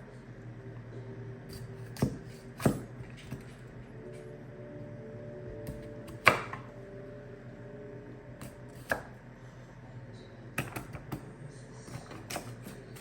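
Scattered knocks and clacks of things being handled in a kitchen, a few sharp single knocks and then a quick cluster near the end, over a steady low hum.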